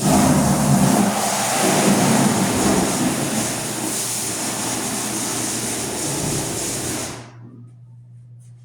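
Water running hard into a washing machine, a loud steady rush that stops about seven seconds in, leaving a low steady hum.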